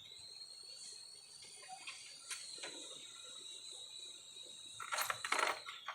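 Light metal clinks and knocks of tools and mower parts being handled, a couple about two seconds in and a quick cluster near the end, over a steady high-pitched insect-like whine.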